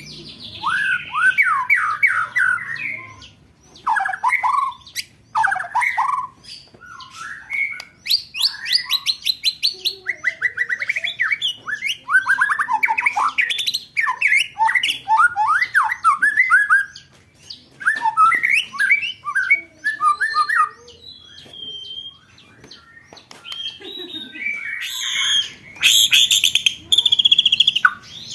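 Recorded songbird song of the kind used for competition-bird training: quick series of sharp downward-slurred notes and rapid rolling trills and chatters, with high, fast trills near the end.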